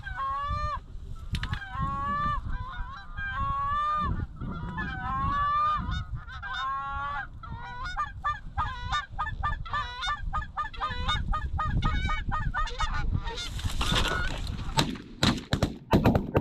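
Goose honks and clucks, the calling speeding up into rapid clucking partway through, then several shotgun shots in quick succession near the end.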